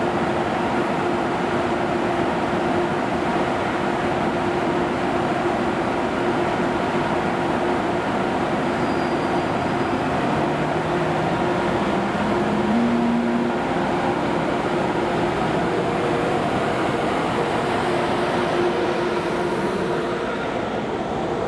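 ICE high-speed electric train in the station, a steady running noise with a constant hum and a low tone that rises briefly about halfway through.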